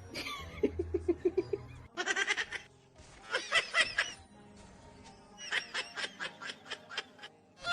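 Rapid bursts of laughter, repeated several times, over background music.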